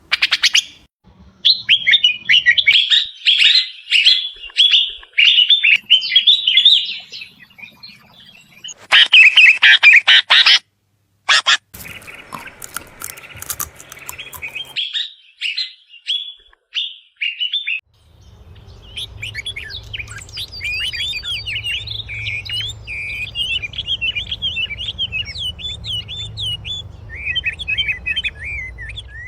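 Songbirds chirping and warbling in quick, bright notes, in several separate stretches cut abruptly one after another. In the last third, a steady low rumble runs under the birdsong.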